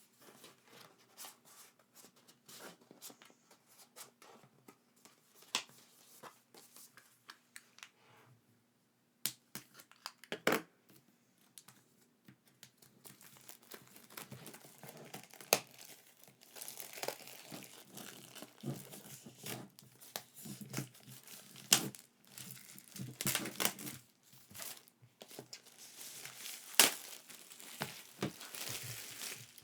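Packaging being handled during an unboxing: scattered clicks and taps at first, then denser crinkling and tearing from about halfway, with a few sharp snaps.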